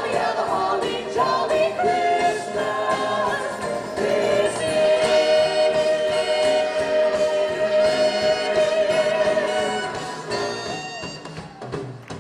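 A Christmas show song, sung by a group of singers over backing music. About four seconds in, the singers hold one long note for around five seconds, then the song winds down and fades near the end.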